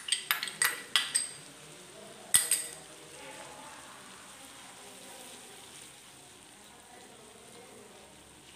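A metal spoon clinks sharply against a ceramic bowl about five times in the first second and a half as yogurt is scraped into the pan, with one more loud clink about two and a half seconds in. Then the onion, tomato and spice masala sizzles steadily in oil as it is stirred with a spatula.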